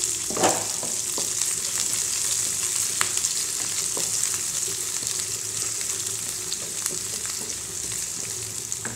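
Chopped onions with crushed ginger, garlic and curry leaves sizzling steadily in hot oil in a nonstick frying pan. A wooden spatula stirs them, with scattered light ticks and a short scrape about half a second in.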